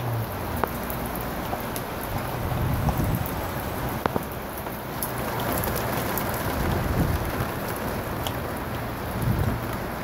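Steady rain falling onto standing water on a wooden deck, a continuous hiss with scattered sharper drop hits, one a little louder about four seconds in.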